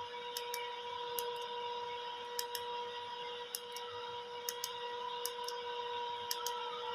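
Restored Philips L4x-25T transistor radio playing through its speaker: a steady tone over static hiss, with sharp clicks, often in pairs, about once a second.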